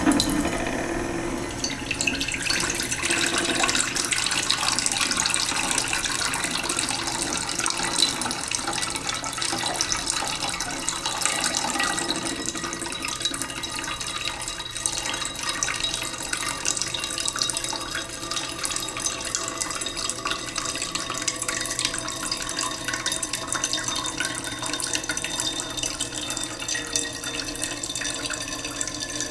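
Water running slowly from a tap into a cooking pot in a sink, a steady splashing and trickling stream.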